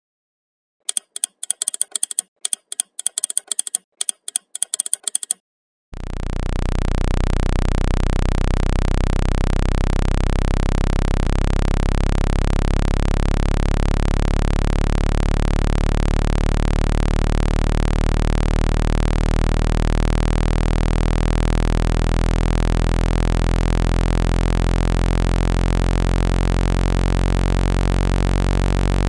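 A run of rapid, crackly electronic clicks for about four seconds, then from about six seconds a loud, steady low buzzing tone: a 165 Hz speaker-cleaning tone meant to shake water out of a phone's speaker.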